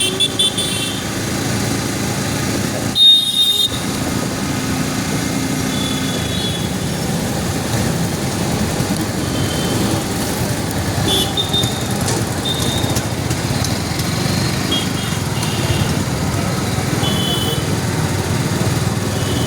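Steady motor-vehicle noise, with a brief sharp louder sound about three seconds in and a few short high-pitched chirps scattered through.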